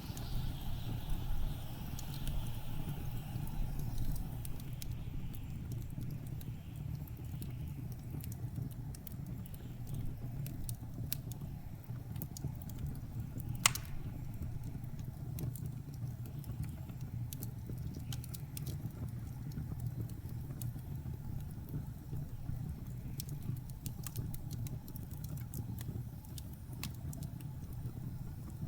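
Wood fire crackling with scattered sharp pops, one loud pop about halfway through, over the steady low rumble of blizzard wind. A hissing gust fades away in the first few seconds.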